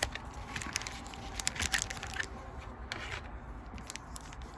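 The foil wrapper of a Pokémon booster pack crinkling and crackling in the hands, in scattered sharp bursts with a quieter stretch midway.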